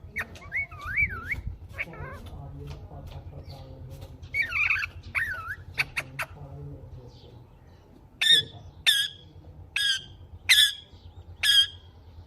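Indian ringneck parakeet calling: wavy, rising-and-falling whistles, then from about two-thirds of the way in a run of five short, harsh squawks roughly one a second.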